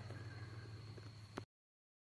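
Faint background hiss with a steady low hum, ended by a short click about a second and a half in, after which the sound cuts out to dead silence.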